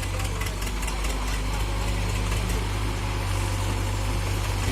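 Heavy diesel engine running steadily at low speed with a deep, even hum.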